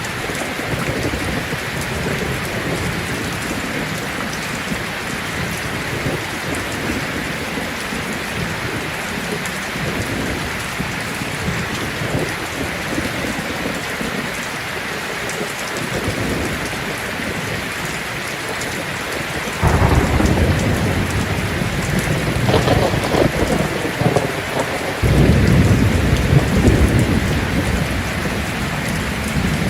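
Heavy rain falling on a tin roof as a steady hiss. Thunder rumbles in suddenly about two-thirds of the way through and swells again a few seconds later.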